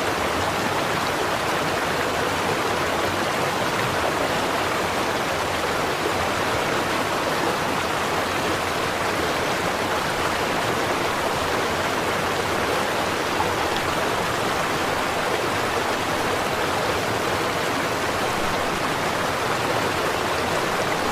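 A stream of running water, flowing steadily.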